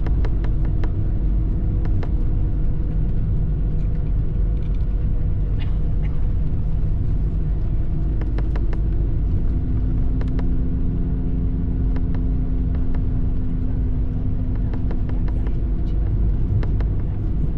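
Airbus A220 cockpit sound: its Pratt & Whitney geared turbofans and airframe give a steady rumble with several steady hums. The hums shift about halfway through, and scattered short clicks and knocks run throughout.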